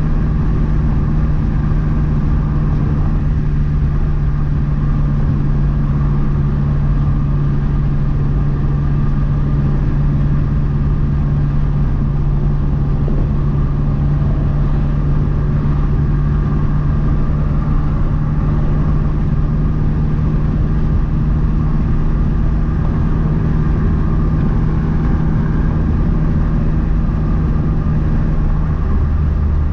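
A 2012 Mazdaspeed 3's turbocharged 2.3-litre four-cylinder, fitted with a big turbo, running at a steady engine speed. It drones at one constant pitch, with no revving.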